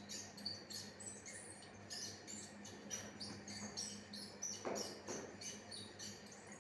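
Small bird chirping in short, high chirps, two or three a second, over a steady low electrical hum.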